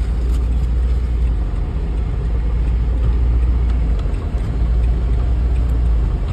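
Mk2 Renault Clio engine idling steadily with a low drone, out of gear because the gearbox or its linkage has failed, with a few faint clicks.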